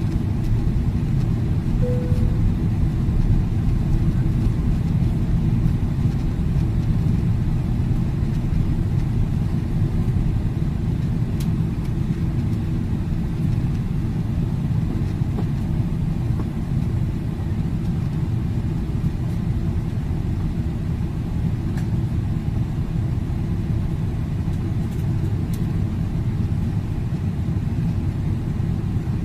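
Steady low rumble of airliner cabin noise: engine and airflow drone heard from inside the aircraft, unchanging throughout.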